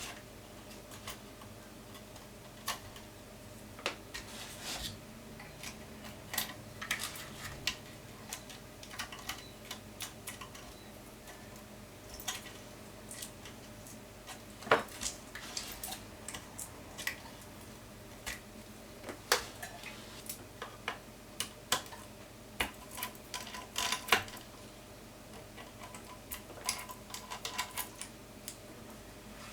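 Irregular small clicks and taps of tools and metal parts as a Seagull 4A twin-lens reflex camera is taken apart by hand, a few sharper knocks standing out, over a faint steady hum.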